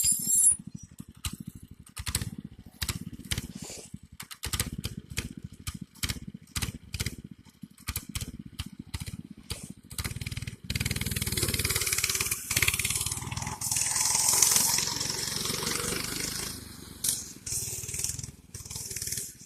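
Mini bike's small gas engine running, with a loose, clattering rattle. About ten seconds in, the sound turns louder and steadier.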